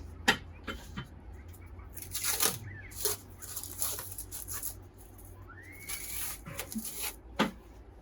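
Irregular scraping and rustling strokes with a few sharp clicks, from hands working on the metal parts of a vintage bread slicer.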